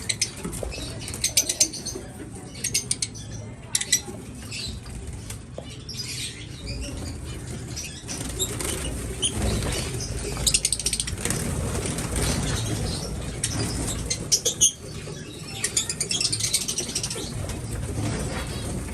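Small birds chirping constantly in quick, repeated chirps, with wing flutters, over a low rumble.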